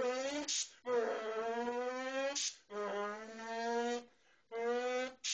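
A man's voice imitating a turbocharged car engine: a buzzing note that climbs in pitch, breaks off and starts lower again, four times like upshifts, with short hisses imitating a blow-off valve after the first, the second and at the end.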